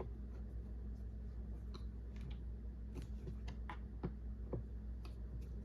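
Scattered light clicks and taps of hands working on snowmobile engine parts, likely refitting a coolant hose to the carburetor shut-off valve, over a steady low hum.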